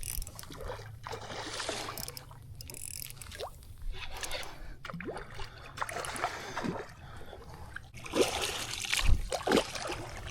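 Water trickling and lapping around a small boat, with scattered light knocks.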